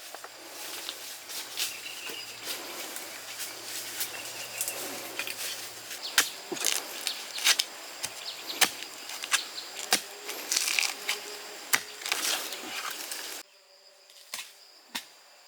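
Irregular sharp clicks and knocks over a steady rustle, with the rustle stopping abruptly after about thirteen seconds.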